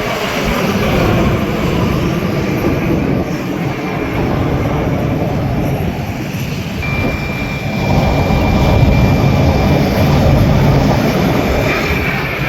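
Aermacchi MB-339 jet trainers flying a display, with loud, continuous jet engine noise. A steady high whine joins about seven seconds in and holds for about three seconds, as the noise grows louder.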